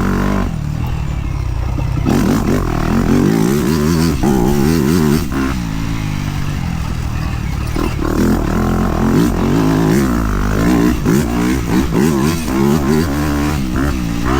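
Dirt bike engine being ridden, its pitch rising and falling over and over as the throttle is opened and closed, with a few sharp knocks.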